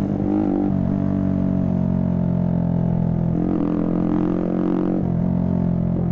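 Motorcycle engine running at steady revs, a droning hum whose pitch wavers briefly about half a second in and again around the middle.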